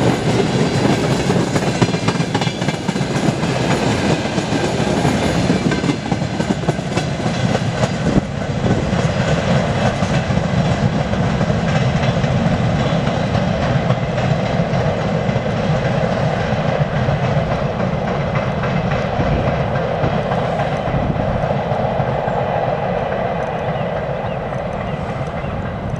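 Long freight train of tank wagons and open wagons rolling past, steel wheels running on the rails. It grows fainter over the last few seconds as the tail of the train moves away.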